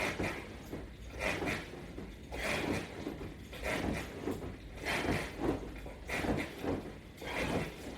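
Someone doing sit-ups with resistance straps: a short rasping whoosh with each repetition, about one every 1.2 seconds, in a steady rhythm.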